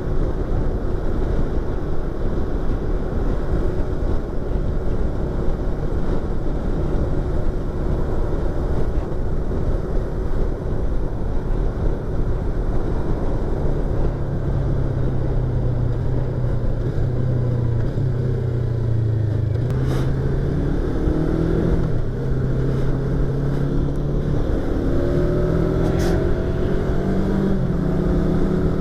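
Yamaha YZF-R25's 250 cc parallel-twin engine and exhaust while riding, heard from inside the helmet with wind noise. About halfway the engine note firms up, and in the last third it climbs in steps as the bike accelerates up through the gears; two short clicks come about two thirds of the way and near the end.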